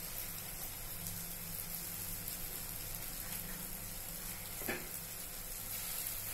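Onion-tomato masala sizzling steadily as it fries in a kadai, with spice powders just added. A single light tap sounds about three-quarters of the way through.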